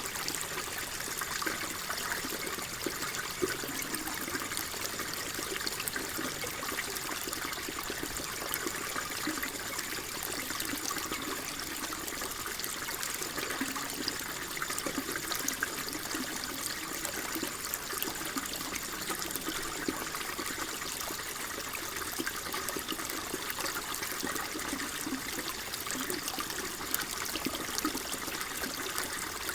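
Water flowing and trickling steadily, a continuous gentle babble with small splashes.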